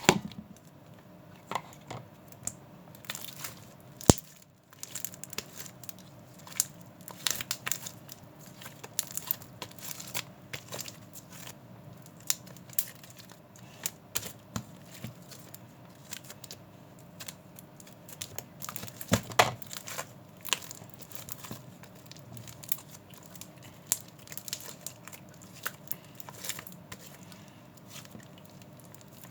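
Irregular crinkling and tearing-like rustles with scattered clicks and taps, as something is handled close by, over a faint steady hum. A louder flurry comes about two-thirds of the way in.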